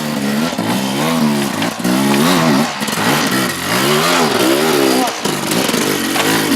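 Motorcycle engine being revved in repeated blips, its pitch rising and falling several times.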